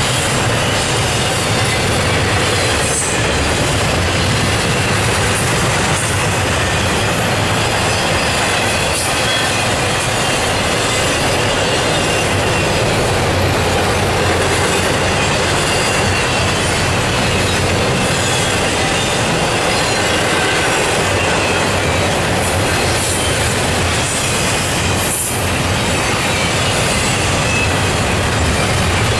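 Double-stack intermodal freight cars rolling past at speed: a steady, loud rumble of steel wheels on the rails, with a thin, wavering high squeal from the wheels and a few faint knocks.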